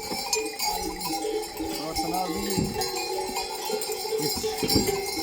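Metal bells on grazing sheep or goats clanking and ringing steadily.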